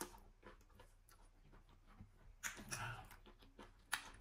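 Quiet close-up eating sounds of fufu and okra soup eaten by hand: soft chewing, a louder wet mouth noise about two and a half seconds in, and a sharp short smack near the end.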